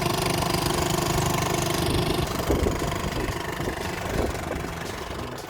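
A boat engine running steadily at idle, fading out near the end.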